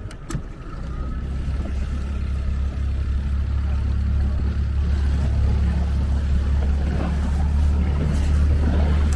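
Motorboat engine droning steadily and growing louder from about a second in, as if being opened up, after a short click near the start.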